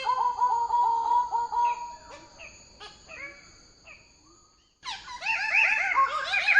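Bird-of-paradise calling: fast runs of short ringing notes, about eight a second. The first run fades out over the first few seconds, and a brief silence follows. A louder run starts about five seconds in and climbs in pitch.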